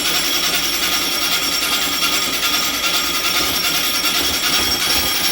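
Air-cooled 1600 single-port Volkswagen engine with a Holley 2110 carburettor, running at a steady, fairly high speed just after starting, cold and on its warm-up cycle. Its level falls away sharply near the end.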